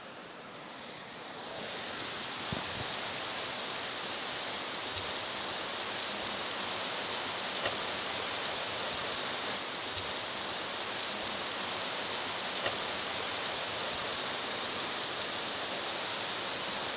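Steady rain pouring down, an even hiss with a few faint drip ticks; it swells about a second and a half in and then holds.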